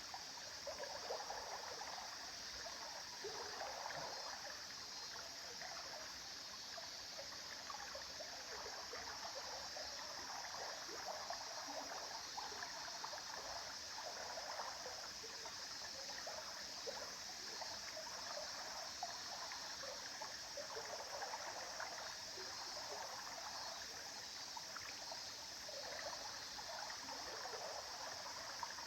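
A small river or stream flowing and babbling over stones, a steady trickling and gurgling water sound.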